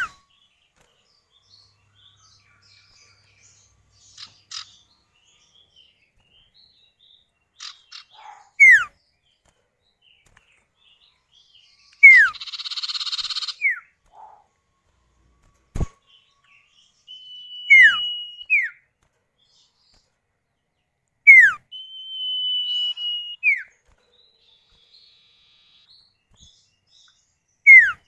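Common iora (sirtu, cipow) calls, male and female answering each other: loud, short, sharply falling whistles repeated every few seconds, two long drawn-out high whistles, and a buzzy rasp about twelve seconds in. A single sharp click about sixteen seconds in.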